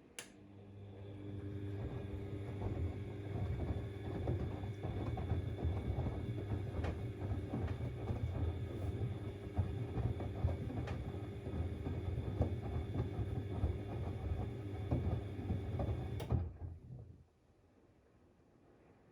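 Siemens XLS 140 A washing machine turning its drum during a boil-wash. A click, then the motor comes up to speed and hums steadily under the jumbled splashing and tumbling of the wet load for about fifteen seconds, before stopping suddenly.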